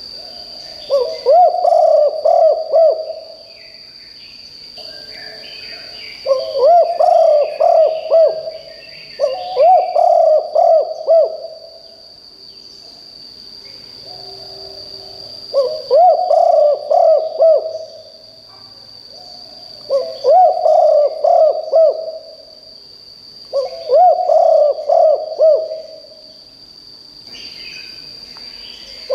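Spotted dove cooing loudly: six cooing phrases of about two seconds each, spaced a few seconds apart. Faint chirps from other birds come between them, over a steady high-pitched whine.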